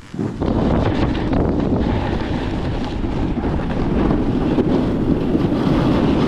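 Wind buffeting the microphone: a loud, steady rush that starts suddenly about half a second in.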